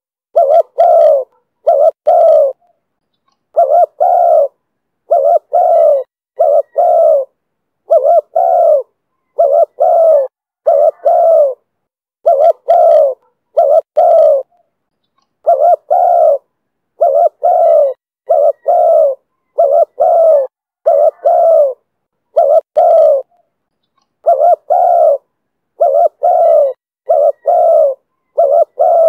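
Spotted dove cooing in the call style known as 'thổ thúc bổi': loud, short, low coos delivered in quick groups of two to four, with brief pauses between groups.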